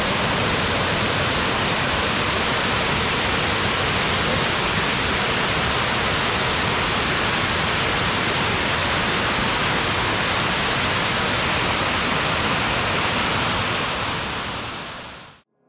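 Waterfall's falling water: a loud, steady rush that fades out near the end.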